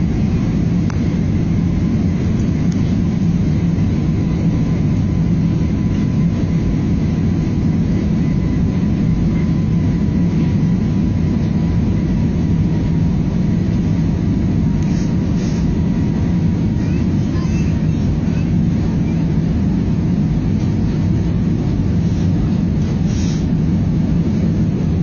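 A steady low rumble with a faint hum, holding even throughout, with a few faint ticks near the end.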